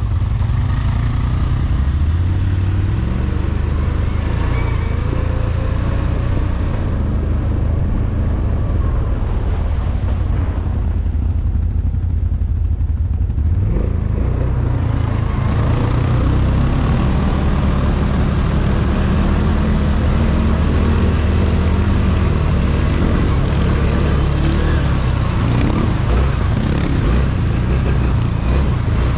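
ATV engine running under way, its pitch stepping up and down with the throttle. For several seconds in the middle the sound turns duller and muffled, then clears again.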